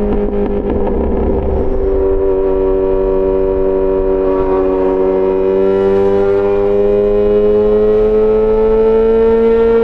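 Yamaha XJ6 S's inline-four engine through an SC-Project aftermarket exhaust, running under way with a rough, crackly edge in the first couple of seconds. The note then climbs steadily as the bike accelerates through a gear.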